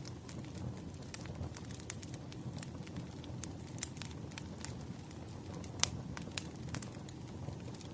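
Campfire wood fire crackling: a low, steady rumble of flames under irregular sharp pops and snaps, the loudest pop about six seconds in.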